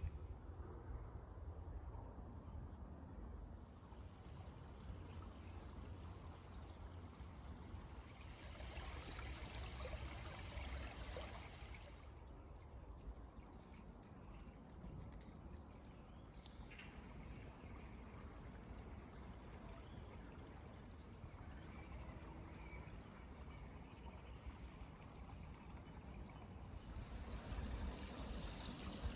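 Faint outdoor ambience: a steady hiss with a low rumble, and a few brief, high wild-bird calls about a second in, around the middle, and near the end.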